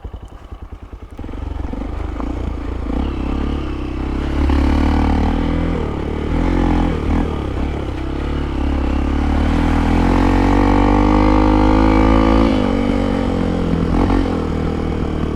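Hero Impulse single-cylinder motorcycle engine being ridden: it putters at low revs, then picks up, its note climbing and dipping under throttle. It eases off sharply near the end.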